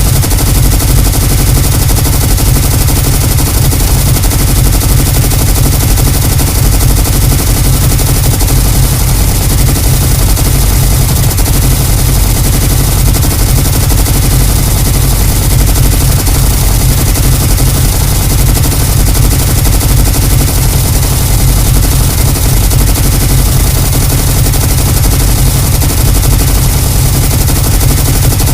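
Automatic gunfire sound effect: a machine gun firing one unbroken rapid stream of shots, heavy and deep, with no pause.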